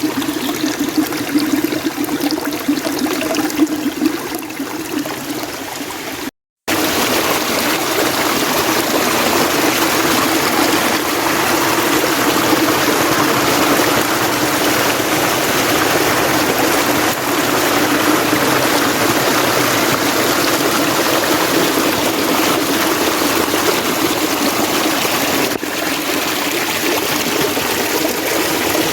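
Mountain stream water running steadily over rocks. About six seconds in the sound cuts out for a split second, then resumes slightly louder.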